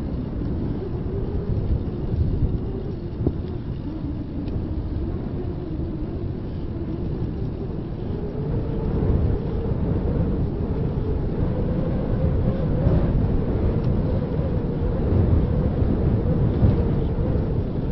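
Wind buffeting the microphone of a handheld camera on a moving bicycle: a steady low rumble that grows a little louder about halfway through.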